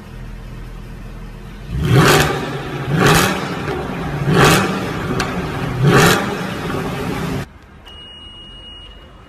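Mercedes C63 AMG V8 idling, then blipped four times in quick sharp revs, each rising and falling back to idle. After a cut, a single steady electronic beep lasting about a second.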